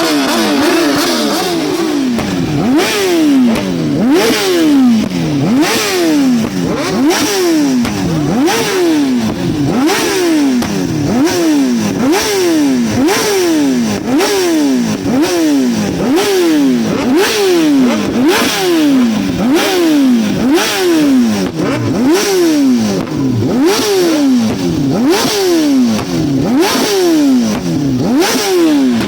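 Yamaha MT-07's parallel-twin engine through an SC-Project exhaust, revved up and let fall back over and over, about once a second, with a sharp crack at many of the revs.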